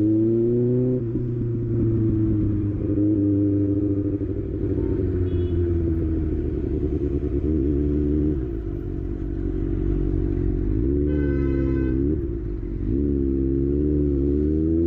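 Kawasaki ZX6R inline-four engine running while ridden, its pitch climbing at the start, then wavering and falling and rising again with the throttle. A brief high-pitched beep sounds about eleven seconds in.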